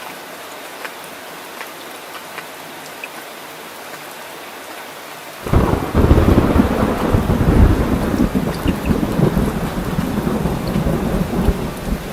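Steady rain with scattered drop ticks, then about halfway through a sudden loud thunder rumble that rolls on, with the rain still falling underneath.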